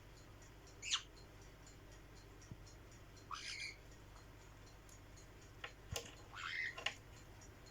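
A bird giving a few short sweeping chirps, spaced a couple of seconds apart, over a faint high ticking.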